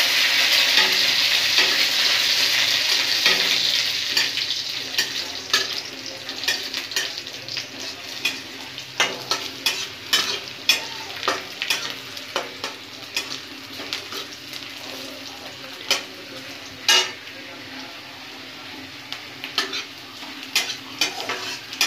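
Dry red chillies and onion frying in hot oil in a metal kadai: a loud sizzle at the start that dies down over the first few seconds. After that a spatula stirs and scrapes the pan, with repeated clicks and taps against the metal over a softer frying hiss.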